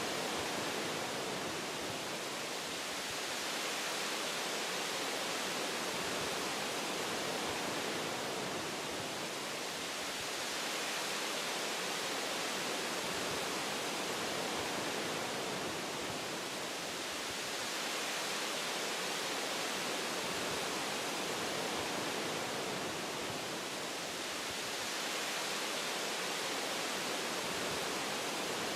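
Wind blowing through tree branches in a forest: a steady rushing hiss that swells and eases gently every several seconds.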